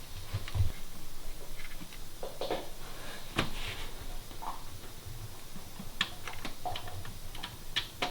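Irregular clicks and knocks of hand tools and metal engine parts being handled during engine disassembly, with the sharpest knock about three and a half seconds in.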